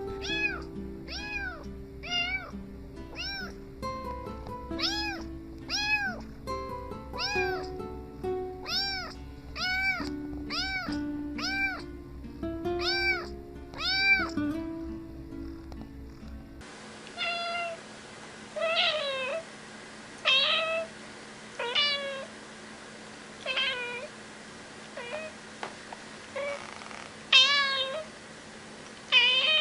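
A cat meowing over and over, short rising-and-falling meows about one a second, with background music under them. About two-thirds of the way through the music stops and a different cat recording follows: meows alone, more widely spaced, with louder ones near the end.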